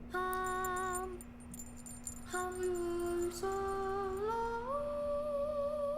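A hummed or sung melody of a few long held notes, the first two level and the later ones stepping upward in pitch, with a faint twinkling chime above.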